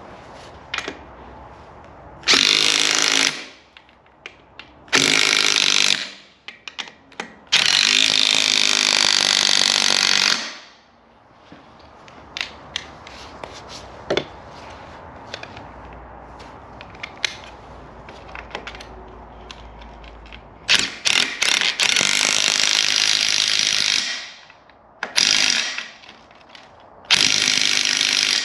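Power tool run in six short bursts of one to three seconds, with sharp metal clicks and knocks between them.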